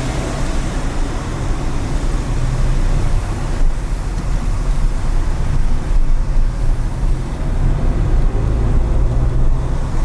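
Steady road noise of a car driving on wet city streets: a low rumble with tyre hiss and no sudden events.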